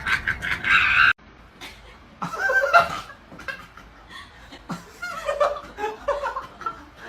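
Human laughter in short chuckles and snickers. A louder stretch of rapid laughing cuts off suddenly about a second in.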